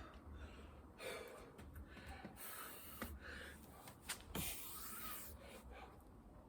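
A man breathing hard from exertion, with heavy rasping breaths about once a second and a few light knocks.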